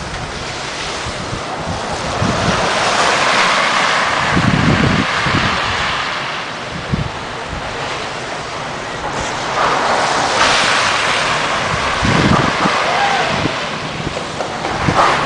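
Wind buffeting the microphone, with a broad hiss that swells and fades twice, about two to five seconds in and again about ten to twelve seconds in.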